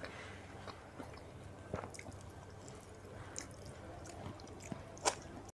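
Faint sounds of a person eating enoki mushroom and chicken satay with chopsticks: soft wet chewing and a few light clicks.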